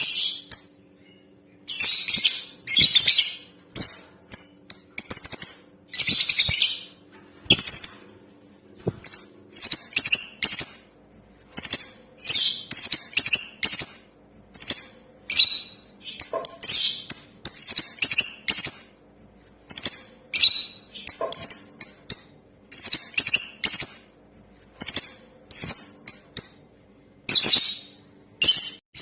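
Female lovebird chattering in bursts of short, high-pitched chirps, about one or two bursts a second with brief gaps between. It is the kind of hen's call played as a lure to set male lovebirds singing.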